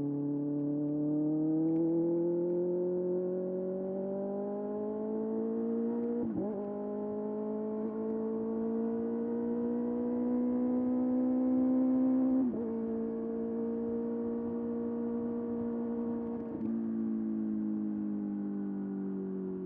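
Kawasaki ZX-6R's inline-four engine running under load as the bike rides, its pitch climbing slowly with three brief breaks, then falling near the end as it slows.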